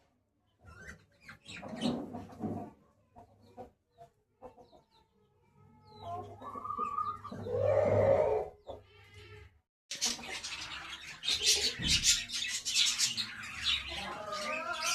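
Birds calling in separate bursts with short pauses between them, then background music starts abruptly about two-thirds of the way through.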